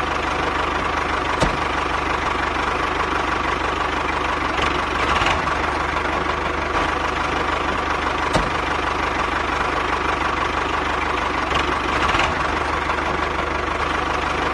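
A small motor running steadily, with a thin steady whine and a couple of brief clicks.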